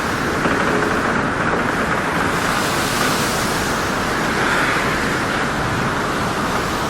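Steady rushing ambience noise that swells and eases gently a few times.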